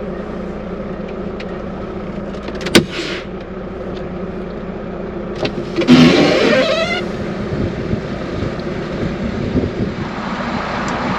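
Semi truck's diesel engine running with a steady low drone as the truck moves slowly. A sharp click comes about three seconds in, and a louder rush of noise lasting about a second comes around six seconds in.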